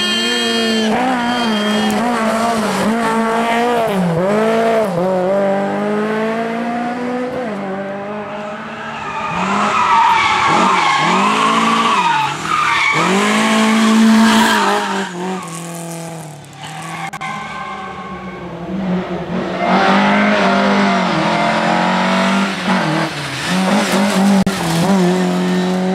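Lada rally car's four-cylinder engine revving hard, its pitch climbing and dropping again and again through gear changes and lifts off the throttle. The tyres squeal and skid through the corners, loudest around the middle and again near the end.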